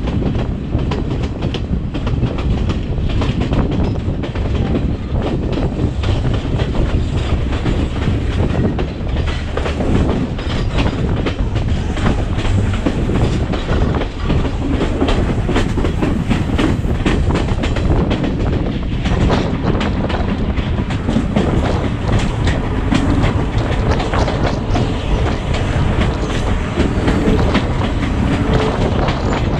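Passenger train running along the line, a steady rumble with rapid, irregular clicks of the wheels over the rail joints.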